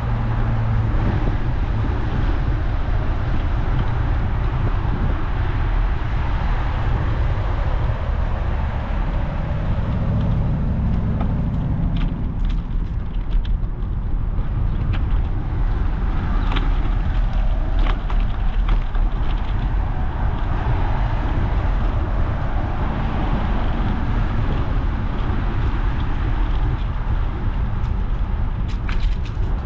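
Steady rumble of wind and road noise from a bicycle ride, with a few sharp clicks or rattles around the middle and near the end.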